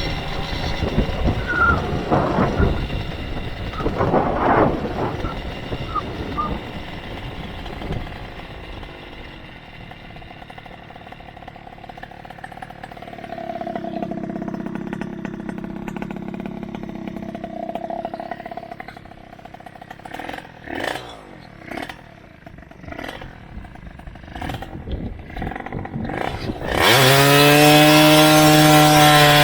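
Motorized bicycle's small engine running. It falls to a low level through the middle, with a few sharp clicks and knocks, then comes in suddenly loud and steady near the end.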